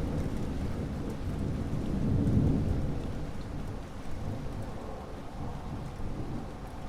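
Steady rain with rolling thunder: a low rumble swells about two seconds in and slowly dies away under the rain's hiss.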